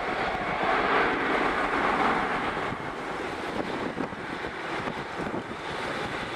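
Jet airliner's engine roar, a broad rushing noise that is loudest about a second in and then slowly fades as the aircraft draws away, with wind buffeting the microphone.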